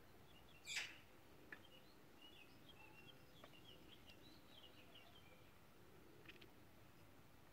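Quiet outdoor background with a bird singing faintly: a run of short, high chirps in the middle and another near the end. A brief, sharper sound stands out about a second in.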